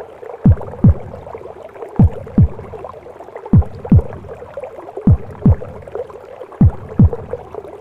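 Mother's heartbeat as heard in the womb: deep thumps in lub-dub pairs, about one pair every second and a half, each thump dropping in pitch. Under it runs a steady whooshing womb noise.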